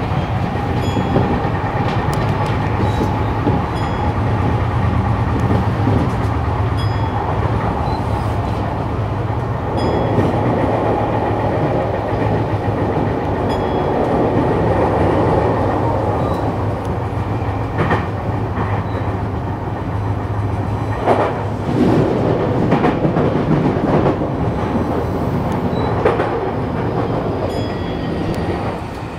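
Yokohama Minatomirai Railway Y500 series electric train running, heard from inside the car: steady wheel-and-rail running noise over a low hum, with rail-joint clicks. It gets quieter near the end.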